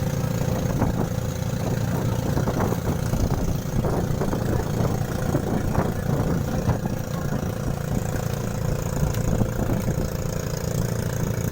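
A vehicle engine running steadily, with a continuous low-pitched noise and no change in speed.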